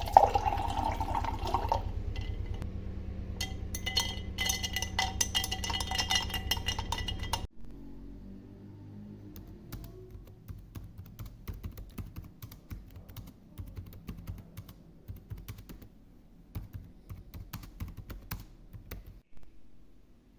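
Rapid light clicking and tapping, dense for the first several seconds and sparser after an abrupt cut, with music fading out at the start.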